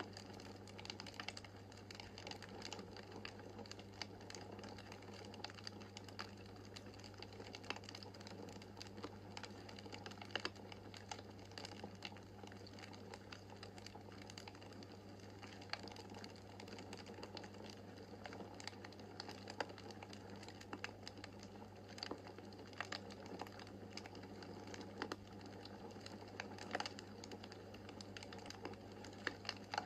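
Wood fire crackling in a fireplace: irregular small crackles and snaps over a soft steady background, with a few louder pops here and there.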